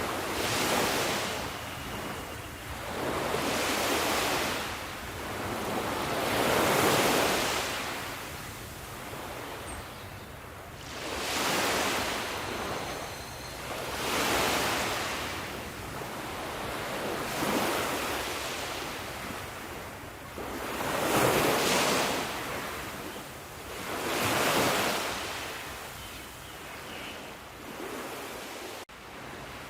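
Sea waves breaking on a shore, one after another about every three seconds, each surge swelling and then washing back.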